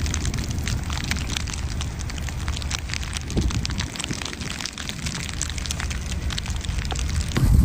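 Dense, irregular patter of many small ticks over a steady low rumble, like precipitation striking a hard surface.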